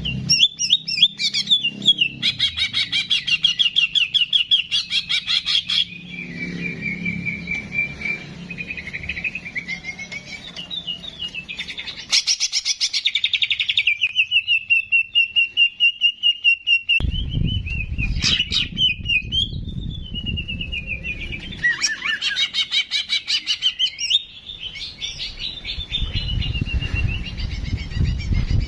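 Cucak jenggot (grey-cheeked bulbul) singing a long, varied song of fast chattering trills and clear whistled glides, with hardly a pause. A low rumble sits under it in a couple of stretches.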